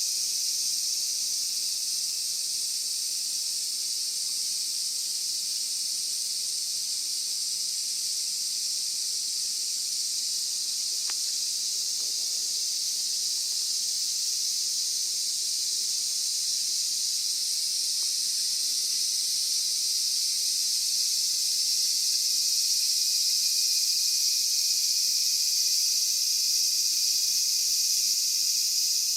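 Steady high-pitched insect chorus, with nothing else standing out, growing a little louder in the second half.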